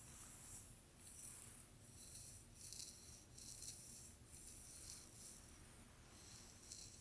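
Soft, hissy swishing strokes through a person's hair from ASMR hair play, a series of irregular strokes about once or twice a second.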